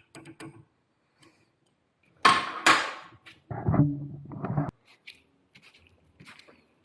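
Metal parts of a belt grinder attachment being handled and tightened: small clicks and two loud sharp knocks of metal on metal in quick succession about two seconds in, followed by a short low murmur of a man's voice.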